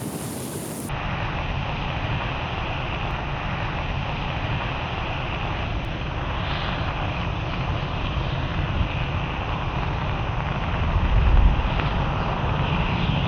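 A large mass of burning matches making a steady roaring rush with a deep rumble, swelling near the end.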